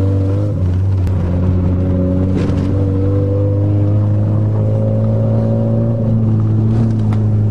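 Manual Toyota car's engine running steadily in first gear, a droning hum heard from inside the cabin, with small shifts in pitch.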